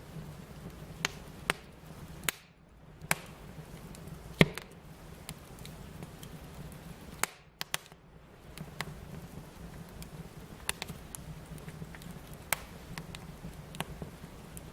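Wood fire crackling: irregular sharp pops and snaps over a steady low hiss, with one loud pop about four seconds in.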